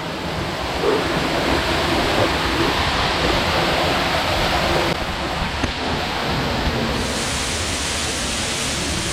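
Rushing water of a jungle waterfall and river, a steady hiss.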